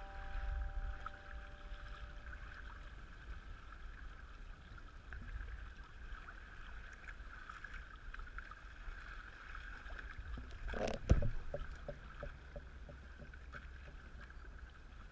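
Hobie Adventure Island kayak moving on open water: water washing along the hull with a low wind rumble, and a brief louder knock about eleven seconds in.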